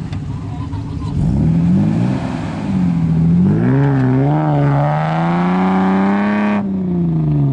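A 4x4's engine revving hard under load on a dune climb from a short run-up, its pitch wavering up and down and then climbing. Near the end the throttle is lifted abruptly and the revs fall away.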